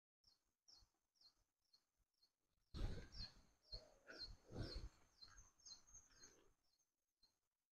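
Faint, regular series of short falling chirps, about two a second, from a small bird. In the middle, low rustling and soft knocks of handling noise are louder than the chirps.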